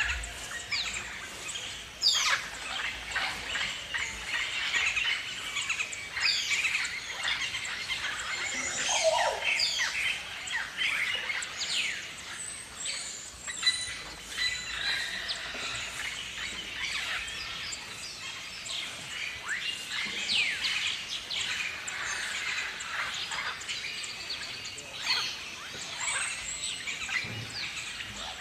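Galahs (rose-breasted cockatoos) calling, many short shrill calls and chirps overlapping without pause.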